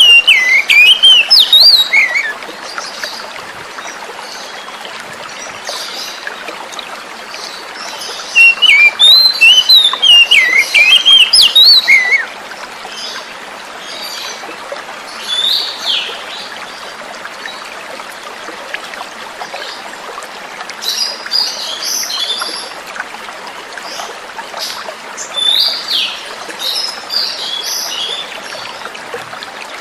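Oriental magpie-robin singing quick runs of sliding, varied whistles. The song is loud at the start and again from about 8 to 12 seconds in, then turns to softer scattered chirps, over a steady hiss of flowing water.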